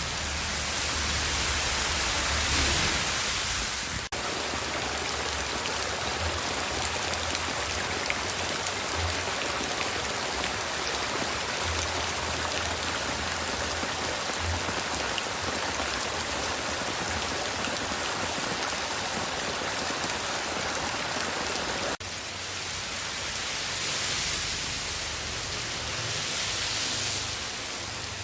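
Rain falling steadily, an even hiss, with sudden breaks about four seconds in and again about six seconds before the end.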